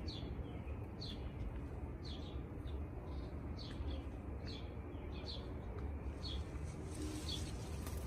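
A small bird giving short, high chirps that fall in pitch, about one a second, over a steady low rumble.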